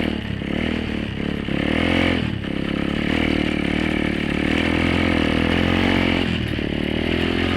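Apollo 125cc dirt bike's single-cylinder four-stroke engine running under throttle while riding, the revs dipping and climbing again several times.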